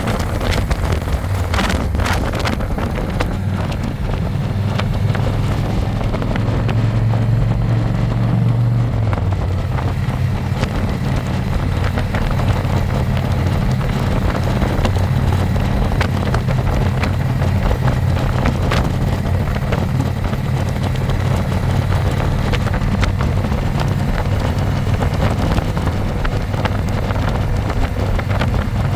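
Harley-Davidson Electra Glide's V-twin engine running at road speed, heard from the passenger seat, with wind rushing across the microphone. The engine note changes about nine seconds in.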